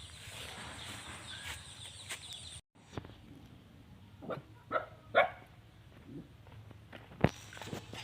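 A steady high-pitched hiss breaks off abruptly about two and a half seconds in. A dog then gives three short barks about half a second apart, and a single sharp knock follows near the end.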